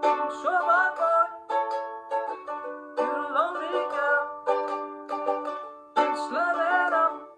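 Ukulele strummed in chords, each strum ringing out, with a voice holding wavering wordless notes over the strums in three short phrases.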